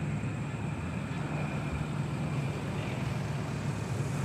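Steady jet engine noise from an A-10 Warthog's turbofans: a low rumble with a faint high whine running over it.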